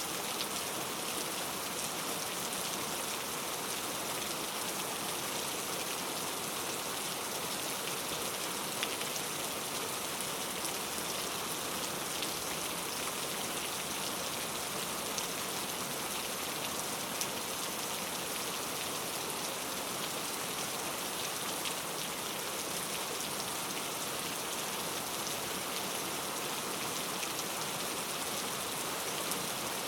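Steady rain falling on forest foliage, a continuous even hiss with many small drop ticks and no change in strength.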